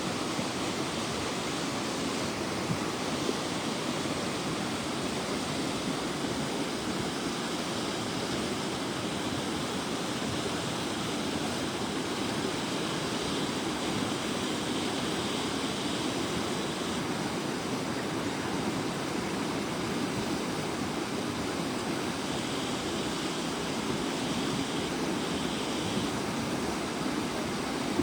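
A river in flood after heavy thunderstorms, its muddy torrent rushing steadily down the channel with an even, unbroken noise of water.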